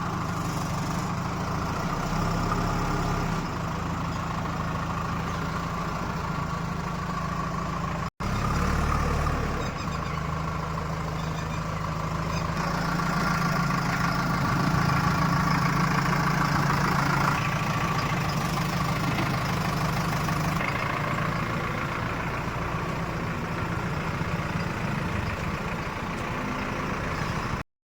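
Diesel engines of heavy farm and earthmoving machinery running steadily, with a short break about eight seconds in and a somewhat louder stretch in the middle.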